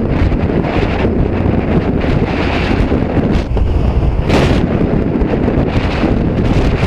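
Heavy wind rushing and buffeting over the microphone of a motorcycle being ridden at speed, with a brief louder gust about four seconds in.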